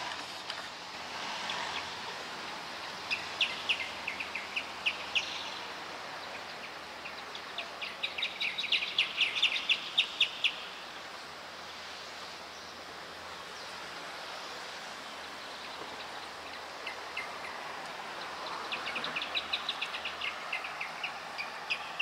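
A pair of rufous horneros singing their loud duet: three bouts of rapid, ringing repeated notes, the middle one the longest and loudest, over a steady background hiss.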